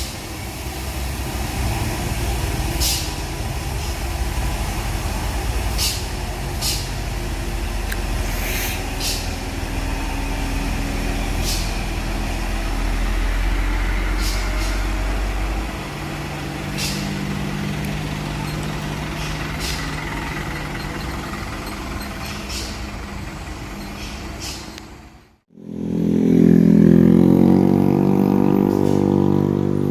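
Heavy truck engine labouring up a steep grade, a low steady rumble that shifts to a higher engine note about halfway through, with short sharp air hisses now and then. Near the end the sound cuts out for a moment, then comes back louder, the engine note rising and falling as it works under load.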